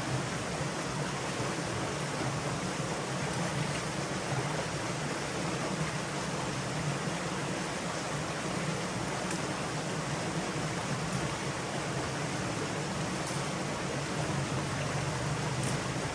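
Steady rushing of running stream water.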